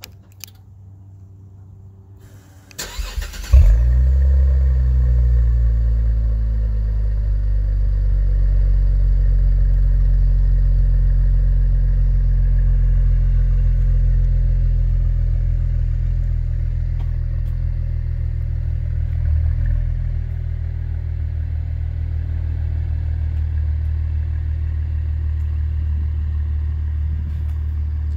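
2017 Cadillac ATS-V's twin-turbo V6 cranked on the starter about three seconds in and catching with a loud flare, heard at the quad exhaust tips. It then settles into a steady, deep idle that eases slightly in level.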